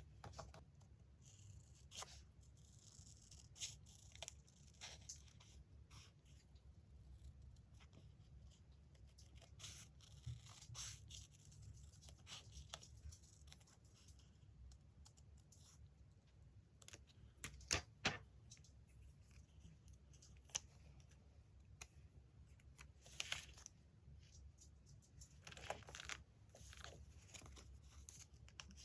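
Magazine paper being handled and torn, with soft rustling and scattered small taps and clicks, a few sharper taps a little past halfway.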